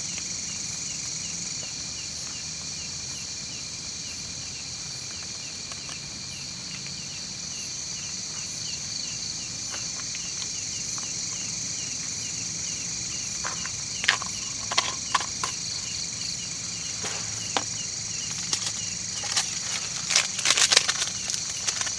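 Night insects in a steady high chorus, with a cricket chirping rhythmically over it. From about two-thirds of the way in come scattered sharp clicks and knocks, busiest near the end.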